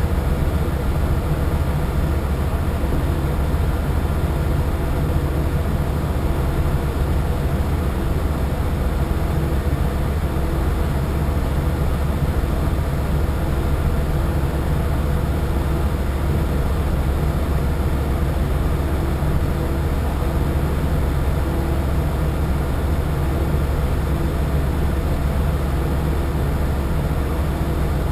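A boat's engine running at a steady pace, a continuous low drone with a hum of steady tones above it.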